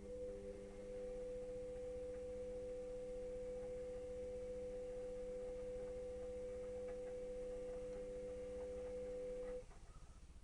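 Electrolux EWS 1045 washing machine giving a steady electrical hum made of several fixed pitches, which holds for about ten seconds and cuts off suddenly near the end.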